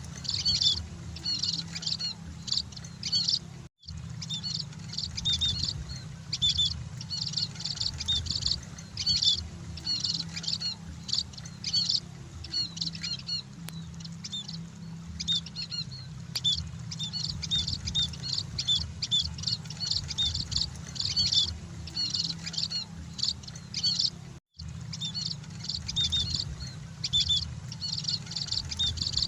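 Munias (emprit) chirping continuously in rapid, high, overlapping calls over a steady low hum. The sound cuts out for an instant twice.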